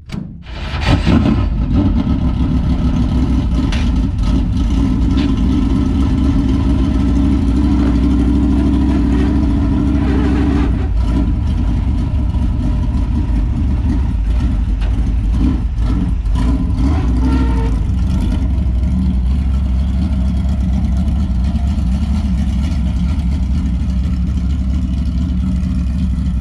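Dirt late model race car's V8 engine catching about a second in, then running loud and steady at low revs, with small changes in throttle partway through.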